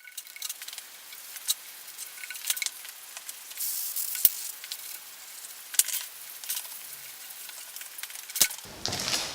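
Aerosol brake cleaner hissing and paper towels wiping across a cast-iron table-saw top, with a few sharp clicks and knocks scattered through.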